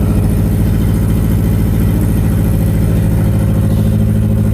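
Nissan 200SX S12's engine idling steadily at an even pitch.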